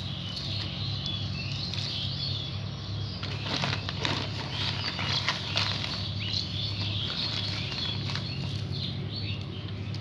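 Small birds chirping over a steady low hum, with a few sharp clicks of charcoal lumps being placed by hand around a bandsaw-blade joint.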